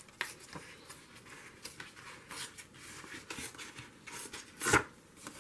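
Paper being torn by hand in a series of short rips, with one louder, longer tear near the end.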